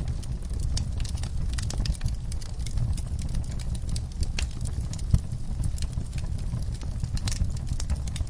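Wood-burning fireplace crackling: irregular sharp pops and snaps over a low, steady rumble of the fire, with one louder pop about five seconds in.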